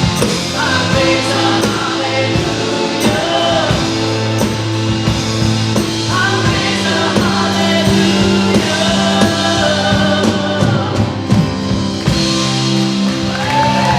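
Live contemporary worship music: a band with drums and a group of singers performing a song.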